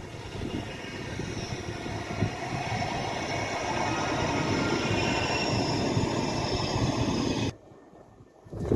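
Manchester Metrolink tram running through the stop, its rumbling wheel-on-rail noise and high whine growing louder over several seconds, then cut off suddenly about seven and a half seconds in.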